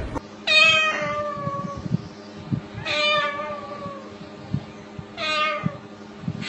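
Three meows, each a drawn-out call sliding down in pitch, the last one shorter.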